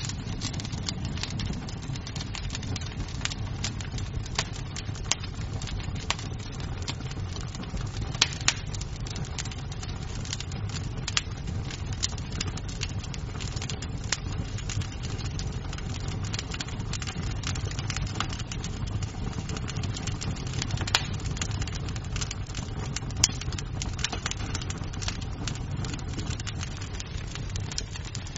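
Wood fire in a fireplace burning with a steady low rumble and frequent irregular crackles, with a few louder wood snaps.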